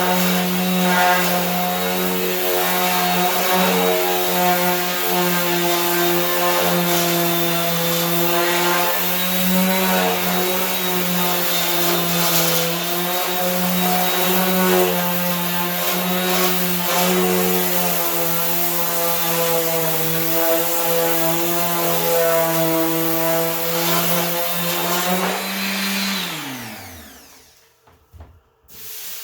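Electric sander with 80-grit paper running steadily against a steel truck fender. Near the end it is switched off and its motor winds down to a stop.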